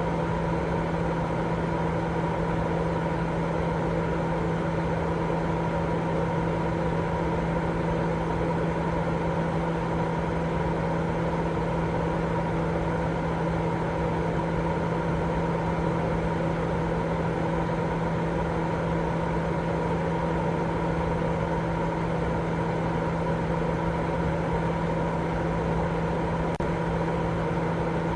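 Continuous baby-sleep white noise: a steady, unchanging hiss weighted toward the low end, with a low hum and a couple of fainter steady tones running through it like a fan or motor.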